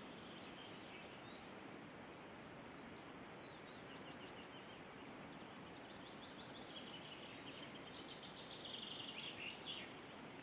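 Faint small birds singing over a steady low hiss: series of short, high, repeated notes, then a louder rapid trill about three quarters of the way through.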